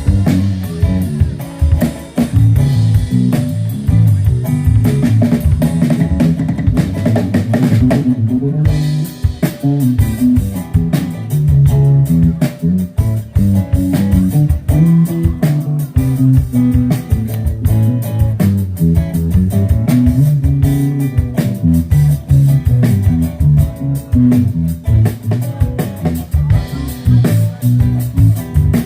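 A trio playing live instrumental music, with guitar, bass and a drum kit keeping a steady beat.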